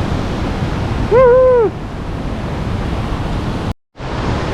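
Steady rushing noise of mountain waterfalls and falling rain. About a second in there is a short, high-pitched vocal exclamation, and near the end the sound cuts out to silence for a moment.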